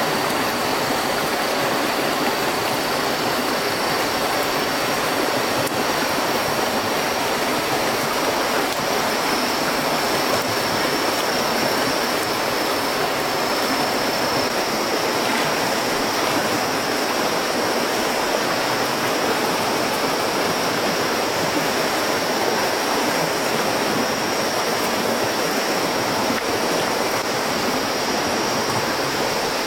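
Steady, unbroken rushing of water, with a thin steady high tone above it.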